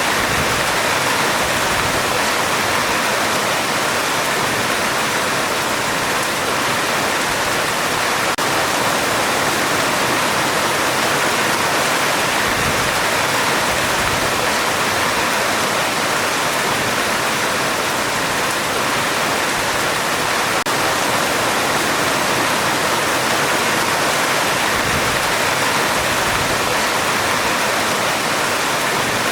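Heavy rain falling on a metal roof: a steady, dense hiss that holds even throughout, with no thunder.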